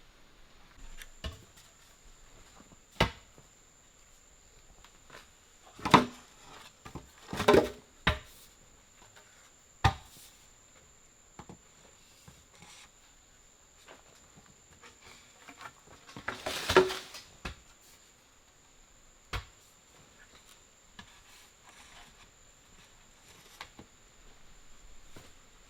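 Irregular wooden knocks and clatters, a few at a time with long gaps, as of wood being handled. A faint steady high-pitched tone runs underneath.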